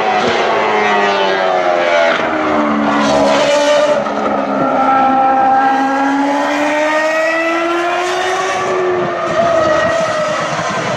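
Ferrari racing car engines at high revs. The pitch falls over the first couple of seconds, climbs from about four seconds in, dips again and rises near the end, with more than one engine note overlapping.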